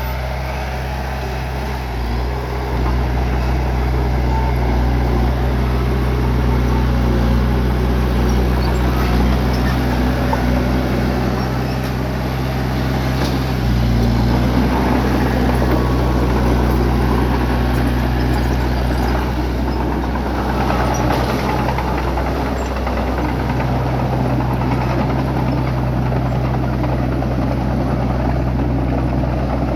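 Bulldozer's diesel engine running hard and steadily, its note shifting a few times as the load changes, with faint scattered clatter over it.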